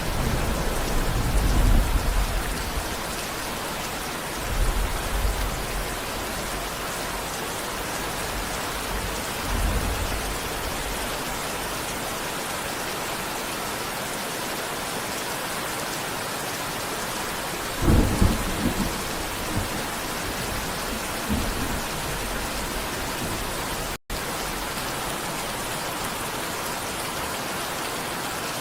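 Steady rain falling, with several low rumbles of thunder: one at the start, two more in the first half, and the loudest about two-thirds of the way in. The sound cuts out for a split second near the end.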